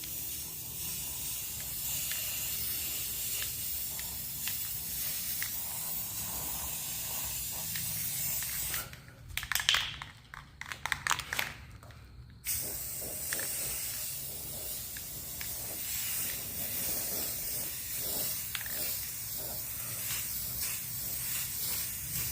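Aerosol spray paint can hissing steadily as paint is sprayed. About nine seconds in the hiss drops out for roughly three and a half seconds, and a run of sharp clicks and knocks is the loudest sound.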